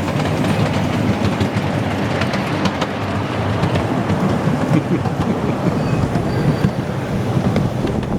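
Miniature railway train running along the track, heard from aboard: a steady rumble with frequent short clicks and clacks from the wheels.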